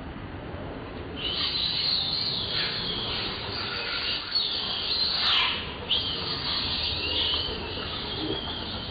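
Baby monkey crying: a run of high-pitched squealing calls with falling glides, starting about a second in and going on with short breaks.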